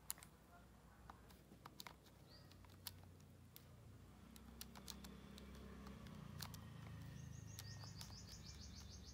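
Near silence: faint room hum with a few soft clicks. Near the end, a bird in the background gives a quick high trill of rapidly repeated notes.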